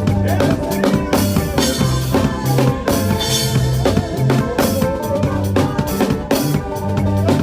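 Drum kit played to a fast makossa praise track, with kick, snare and rimshots over a moving bass line and a cymbal wash a couple of seconds in.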